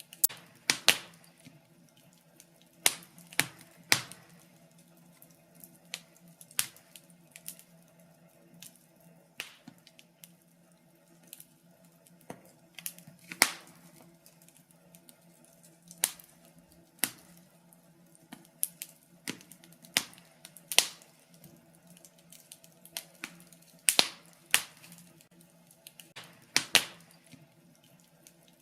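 Wood fire in a fireplace crackling, with irregular sharp pops and snaps, a few of them much louder than the rest. A faint steady hum runs underneath.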